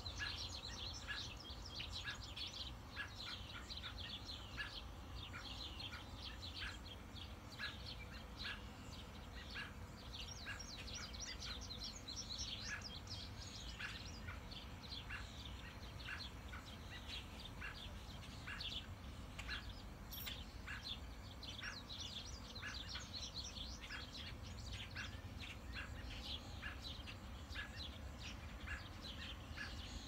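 Wild birds chirping and trilling throughout, several at once, with one short note repeated steadily a little faster than once a second. A low steady rumble lies underneath.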